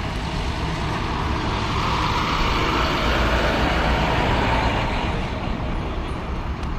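A road vehicle passing by, its noise building to a peak in the middle and then fading, over a steady low rumble.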